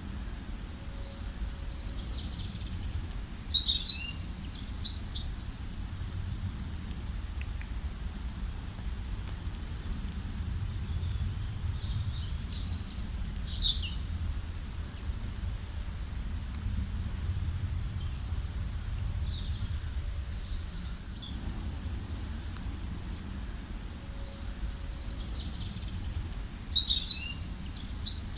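Birds singing: short bursts of high, quick chirping phrases that come about every eight seconds, over a steady low background rumble.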